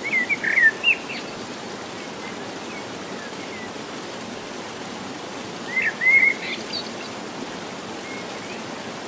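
Birds chirping in short phrases, near the start and again around six seconds in, over a steady rushing background noise.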